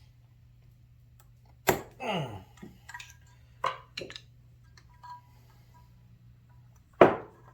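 Metal hand-tool clicks and knocks from a socket wrench working on tight carburetor mounting nuts: a sharp click, a short falling grunt of effort, a few small clicks, then a loud sharp clack near the end. A steady low hum runs underneath.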